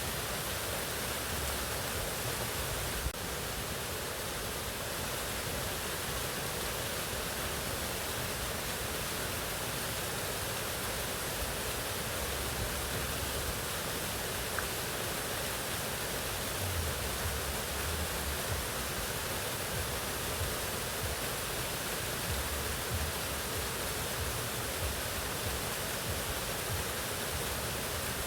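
Mountain waterfall rushing steadily, an even wash of falling water with no change in level. A single brief click about three seconds in.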